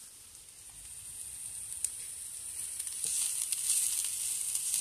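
Vegetables sizzling as they fry in a skillet: a steady hiss that grows louder about three seconds in, with a few faint ticks.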